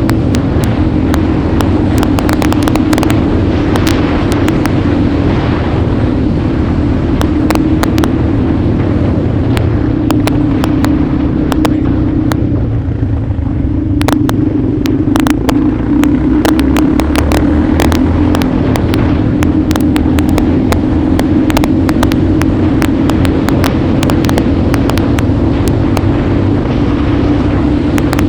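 Motorcycle engine running steadily while being ridden, easing off briefly about halfway through, with frequent sharp clicks and knocks over it.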